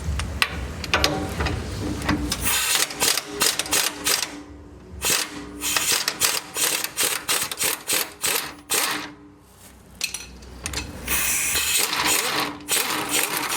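Pneumatic impact wrench hammering, removing the stock track bar's bolts. It comes in three runs of rapid hammering with two short pauses.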